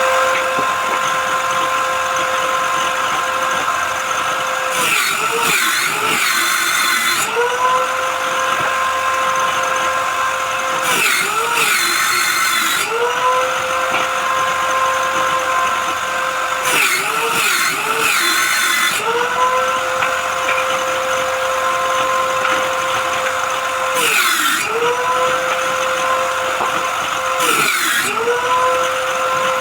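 Electric power tool motor running at a steady high whine, dropping in pitch five times as it is loaded into the wood, each time with a burst of cutting hiss, then winding back up to speed.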